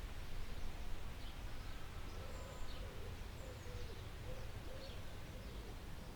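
Forest ambience: several birds calling faintly, short high chirps and a few low wavering calls near the middle, over a steady low rumble.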